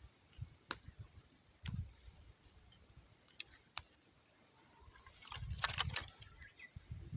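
Scattered sharp clicks and light knocks, with a denser patch of rustling and clicking about five seconds in.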